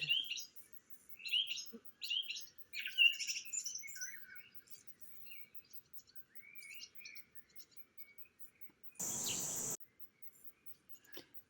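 Birds chirping and singing in short, varied calls for the first several seconds, then a brief burst of noise lasting under a second about nine seconds in.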